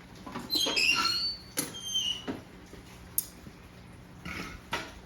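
Light clinks of a steel horseshoe and tools being handled, several in the first couple of seconds, each followed by a brief high ringing, then a few fainter knocks.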